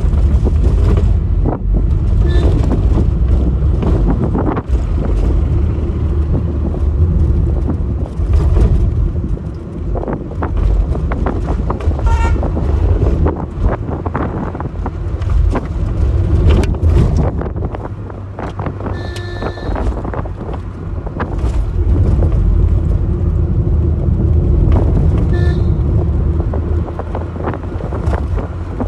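Car travelling on the road, a steady low rumble of engine and tyres, with a few short vehicle horn honks; the longest, about a second, comes about two-thirds of the way through.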